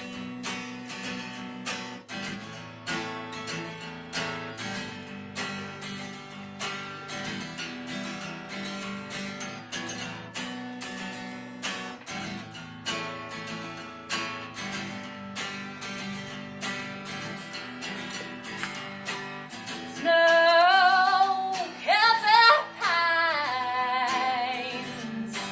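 Acoustic guitar picked and strummed on its own as an instrumental break. About twenty seconds in, a woman's voice comes in much louder, holding and bending wordless notes with a wavering vibrato.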